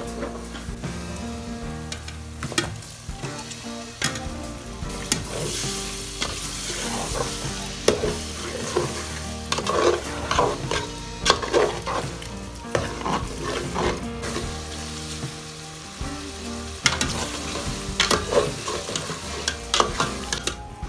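Chicken frying in masala in a steel pot, sizzling, while a metal spatula stirs it with repeated scrapes and knocks against the pot. The sizzle swells twice, a few seconds in and again near the end.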